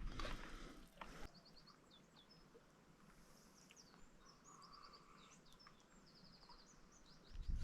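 Faint songbird chirps and short rapid trills, repeated, over quiet open air. A brief rustle of noise in the first second, and a louder low rumble of noise sets in just before the end.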